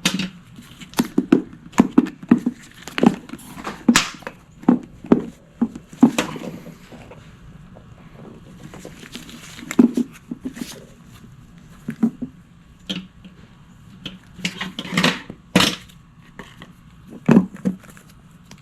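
Irregular knocks, clicks and rattles of mower parts and tools being handled during hands-on work on the fuel tank and carburetor, with no engine running.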